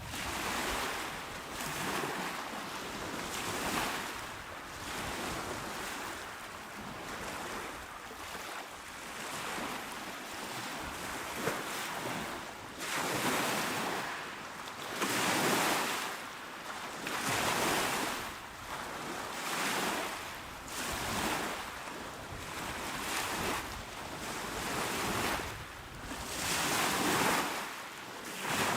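Small, calm sea waves washing onto the shore, a steady hiss of surf that swells and falls back every few seconds, with a few stronger breaks.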